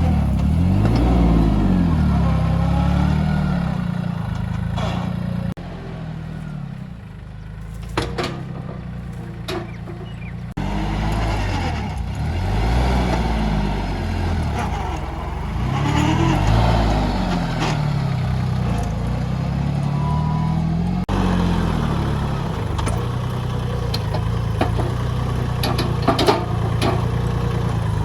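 Tractor engine running, its pitch rising and falling again and again as it is worked, with a few sharp knocks.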